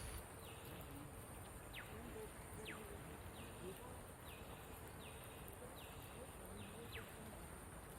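A bird repeating a short falling whistle about once a second, over a steady high-pitched insect drone.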